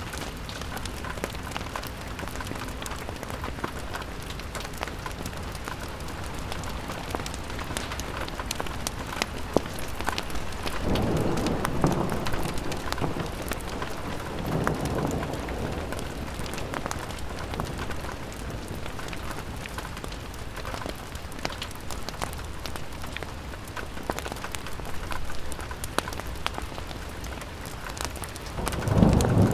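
Steady rain pattering on a window, dotted with sharp crackles from a fireplace. A low rumble swells up about ten seconds in, lasting a few seconds, and again near the end.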